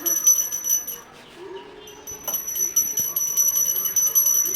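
Small bells jingling quickly and continuously, with a break of under a second about a second in before the jingling resumes.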